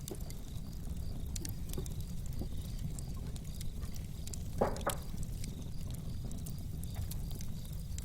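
Wood fire crackling in a stove, with scattered sharp pops over a steady low rumble and one louder snap about halfway through.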